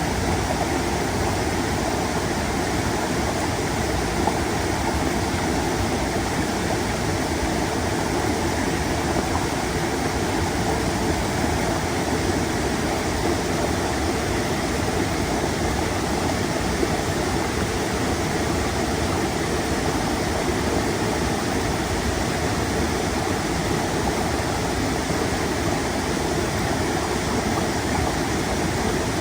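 Stream water rushing and splashing over rocks, a steady, full noise of running water with no pauses or changes.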